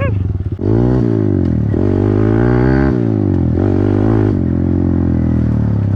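Small pit bike engine revving, its pitch climbing and dropping about three times as the throttle is opened and eased off, then holding fairly steady near the end.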